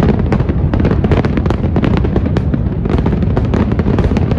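Aerial fireworks display: a dense, unbroken barrage of bangs and crackles over a continuous low rumble.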